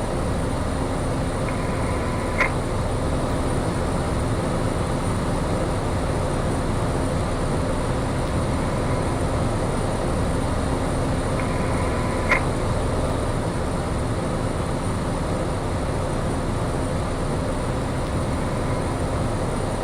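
Piper single-engine propeller plane's piston engine running steadily at low power, heard from inside the cockpit. The plane is holding on the runway, lined up and waiting for takeoff. Two brief clicks come about two seconds in and again about twelve seconds in.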